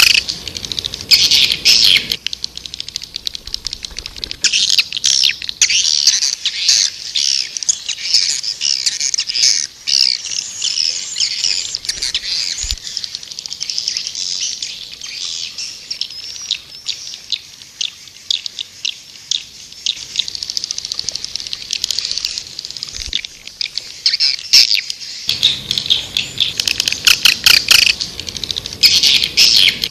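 Swiftlets twittering: a dense, unbroken stream of rapid high-pitched chirps. This is a swiftlet calling sound (suara panggil), the kind played to draw swiftlets in.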